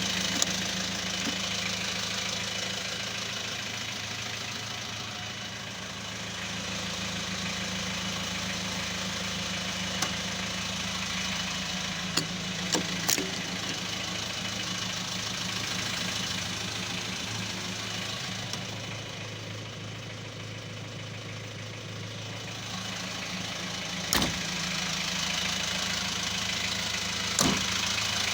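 Chevrolet LUV's engine idling steadily, with a few sharp clicks scattered through.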